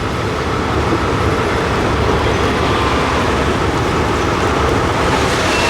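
Passenger train running: a steady rumble and rattle.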